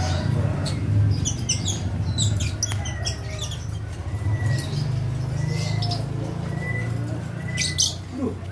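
Lovebirds chirping in short, high-pitched clusters over a steady low hum.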